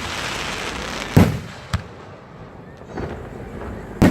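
Fireworks going off: a crackling hiss, then a loud boom about a second in followed by a smaller bang, and another boom at the very end.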